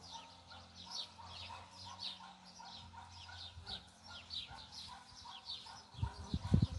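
Small birds chirping continuously, with many short falling chirps several times a second, over a faint low steady hum that fades out about two-thirds of the way through. Near the end come a few low thumps and rustles.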